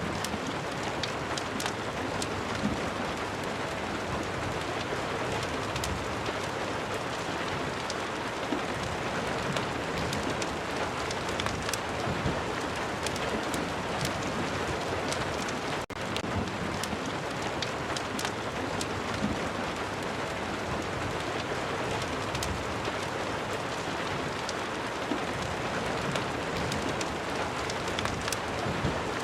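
Steady rain with scattered sharp crackles of a wood fire. The sound drops out for an instant about halfway through.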